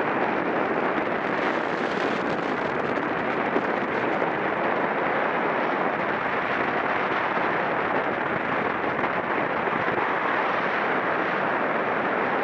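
Steady rushing wind noise on a camera microphone carried on a bicycle ridden at race speed, with tyre and road noise mixed in; it stays even with no breaks.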